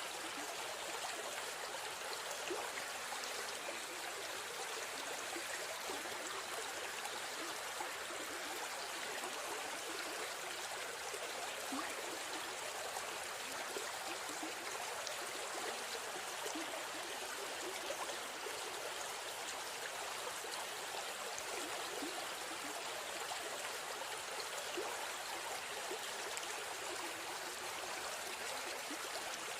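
A river stream flowing and burbling: a steady, even rush of water.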